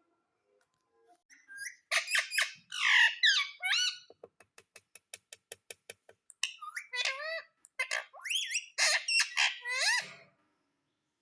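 Ringneck parrot squawking and calling in harsh bursts and quick rising and falling whistled notes, with a fast run of clicks, about eight a second, in the middle.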